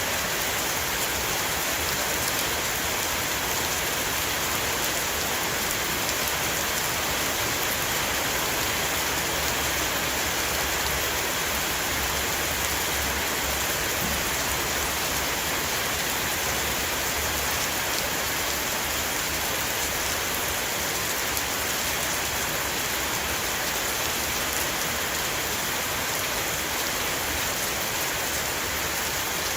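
Heavy rain pouring steadily onto a roof, an even hiss of many drops with no let-up.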